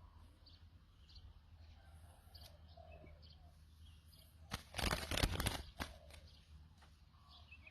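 Faint low coos of a dove with a few small-bird chirps, and about four and a half seconds in a loud burst of noise lasting about a second.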